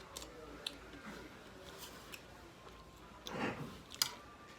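Close-up eating sounds: chewing with small sharp mouth clicks, a short louder noisy burst about three seconds in, and a sharp click near the end.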